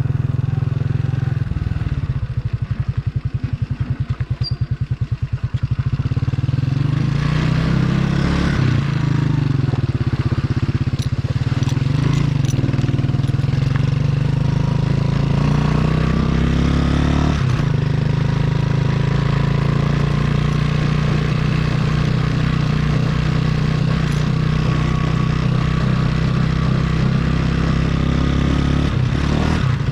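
Motorcycle engine running as it is ridden, with a rapid pulsing throb for a few seconds near the start and the engine pitch shifting up and down through the rest.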